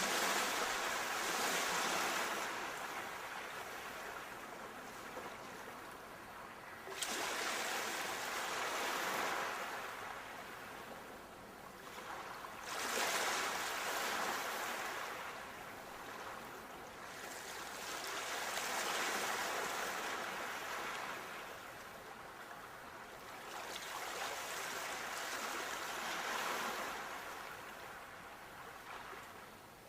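Sea waves breaking and washing back in slow surges, about five in half a minute, each rising quickly and fading away over several seconds.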